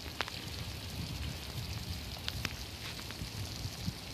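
Rain falling: a steady hiss with single drops ticking sharply here and there, over a low rumble.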